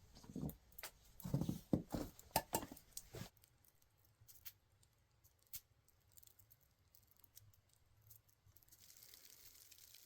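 Handling of camp cooking gear: about three seconds of clicks and scrapes, then quiet with a few light ticks, and a faint steady hiss starting near the end.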